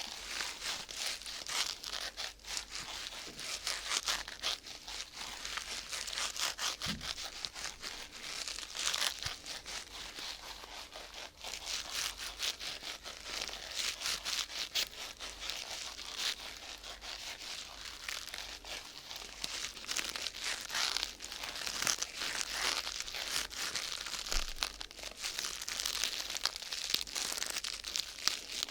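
Thin sheet material crinkled and rustled by hand close to the microphone: a continuous dense crackle that swells and eases.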